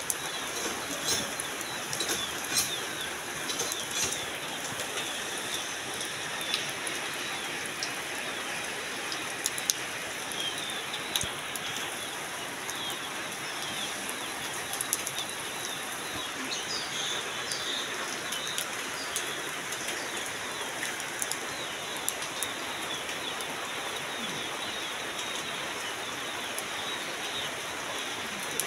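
Heavy rain falling steadily onto a flooded, muddy yard: a dense patter of drops splashing into standing water, with sharper single hits now and then.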